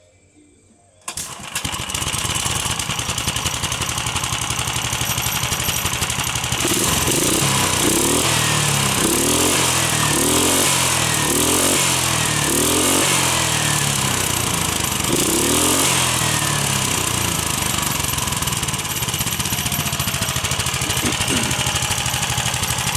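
Tractor engine newly mounted in the chassis starting up about a second in, then running with its speed rising and falling several times as it is revved. It runs strong and even, sounding pretty healthy.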